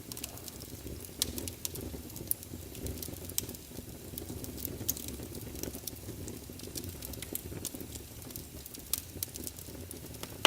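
Logs burning in a fireplace: irregular sharp crackles and pops over a steady low rumble of the flames, with a louder pop at the very end.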